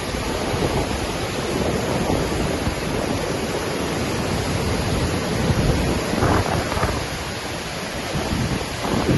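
Waterfall in Iceland, water pouring and crashing in a steady loud rush, with gusts of wind buffeting the microphone.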